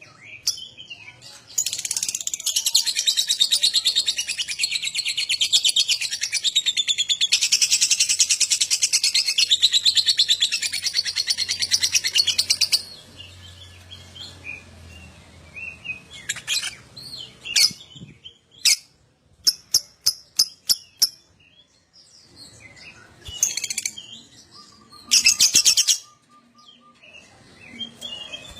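Lovebird ngekek: a long, rapid, high-pitched chattering trill lasting about eleven seconds, starting a couple of seconds in. After it come scattered short chirps and squeaks, with a brief louder burst near the end.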